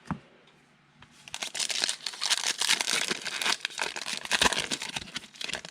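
Crinkling and tearing of a trading-card pack's foil wrapper being opened, starting about a second in and continuing for about four seconds.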